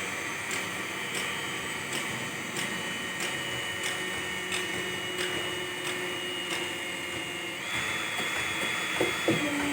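A machine running with a steady high whine and faint regular ticks about twice a second; about three-quarters of the way in the whine steps up in pitch, and a couple of knocks follow near the end.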